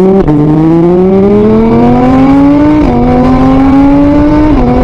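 A motor-vehicle engine accelerating through the gears: its pitch climbs steadily, then drops suddenly at each gear change, three times.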